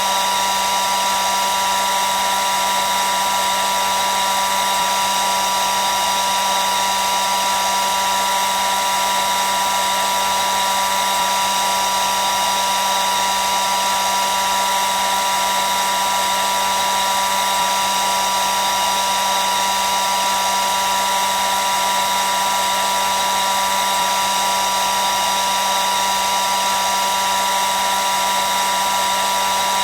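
Hair dryer running continuously: a steady rush of air with a constant high whine from its motor and fan, unchanging throughout.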